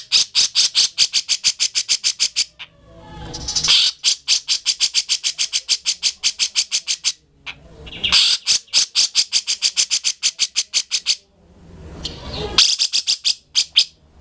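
Cucak jenggot (grey-cheeked bulbul) calling in loud bouts of rapid chatter, about ten harsh notes a second, each bout two to three seconds long and opening with a short rising swell; four bouts in all.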